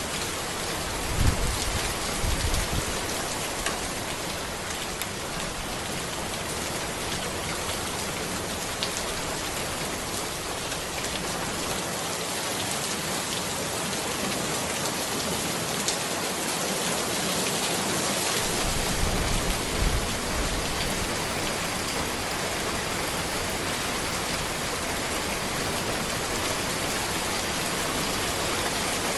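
Steady rain falling on a road, a dense even hiss. A few short low thuds come through about a second in and again about two-thirds of the way through.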